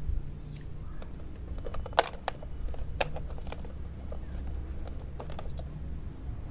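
Handling sounds: irregular clicks and taps, like a plastic toy and its packaging being handled, over a low steady hum.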